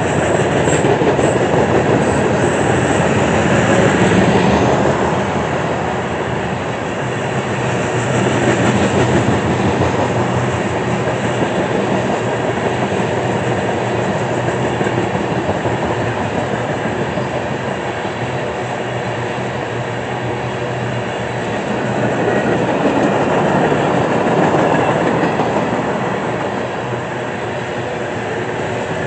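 Freight train tank cars and covered hoppers rolling past: a steady rumble of steel wheels on rail that swells and eases every several seconds as the cars go by.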